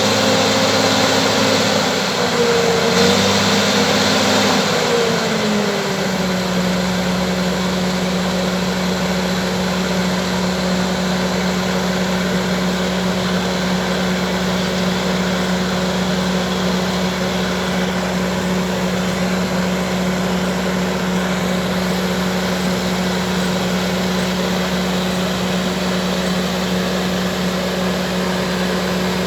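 Bulldozer's diesel engine running. Its speed falls a few seconds in, then it runs at a steady lower speed.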